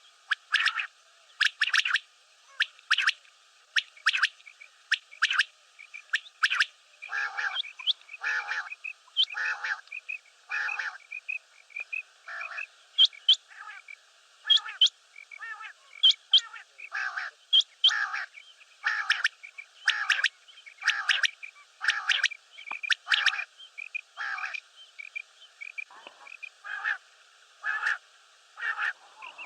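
Common quail calling over and over, short sharp calls coming about once a second with brief gaps, over a faint hiss.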